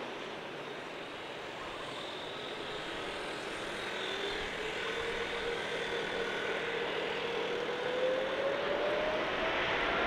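Boeing widebody twin-jet's turbofan engines running as a steady jet hiss. From about four seconds in, an engine whine rises in pitch and the noise slowly grows louder.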